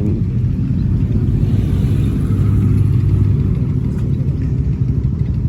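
A vehicle engine running nearby: a steady low rumble that swells a little about two seconds in.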